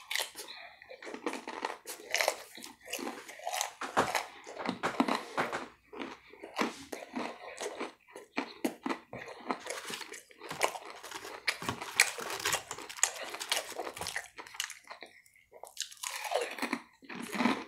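Close-up mouth sounds of a man chewing and biting crunchy food, with irregular crunches several times a second.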